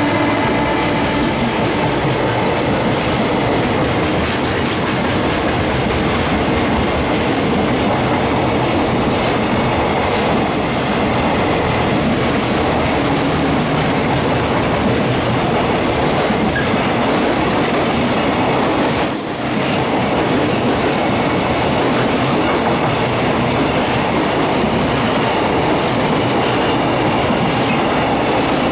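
Freight train's container wagons rolling past at speed: a steady, loud rumble and clatter of wheels over the rails, with a few brief high squeals around the middle.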